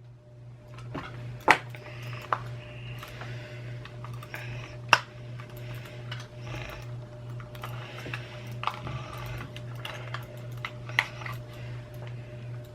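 Irregular small clicks and scraping of a tool working at the plastic parts of a computer mouse, prying at a stuck part that will not come out. A steady low hum runs underneath.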